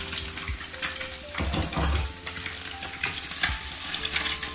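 Fishballs and broken-up egg frying in plenty of hot oil, sizzling and crackling while being stirred in the pan, with a few dull knocks of the utensil about one and a half seconds in.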